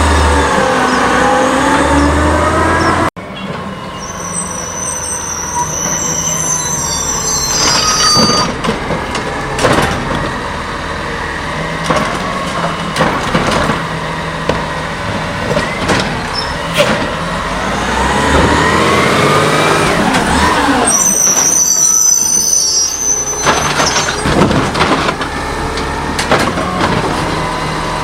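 CNG Heil Scorpion automated side-loader garbage truck at work: its hydraulics whine, rising and falling, while metal clanks and knocks ring out over the running engine. Short high-pitched squeals and hisses come twice, a few seconds in and again past the middle.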